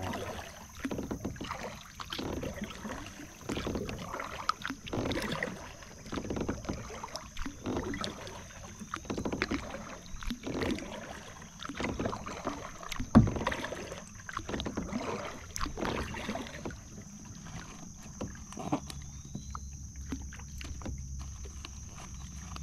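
Kayak paddle strokes dipping and splashing in the water, roughly one a second, with one sharp knock about halfway through; the strokes die away near the end.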